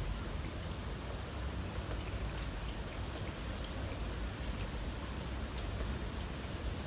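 Light rain falling, with scattered drops ticking, over a low steady rumble. A faint, steady high-pitched insect trill runs underneath.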